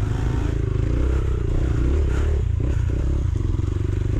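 Rieju Marathon Pro 125 dirt bike's single-cylinder engine running on a rough trail, its pitch rising and falling with the throttle and briefly easing off partway through. There is clattering and scraping from the bike over the rough ground.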